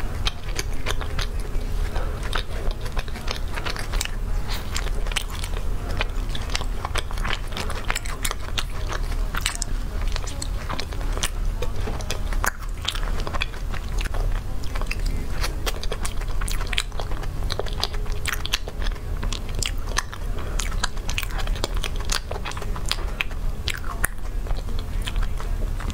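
Close-miked chewing and mouth sounds of a person eating soft cream cake: a dense, irregular run of small clicks over a steady low hum.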